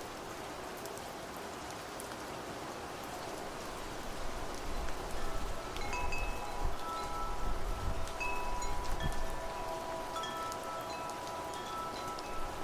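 Steady rain falling, with wind chimes ringing in from about six seconds in, their metal tones sustaining and overlapping. A low rumble swells in the middle and fades.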